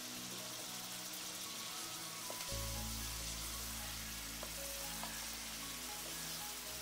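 Chicken pieces sizzling as they fry in hot ghee in a wok, stirred and turned with a wooden spoon. Background music plays underneath, with a deep bass note coming in about two and a half seconds in.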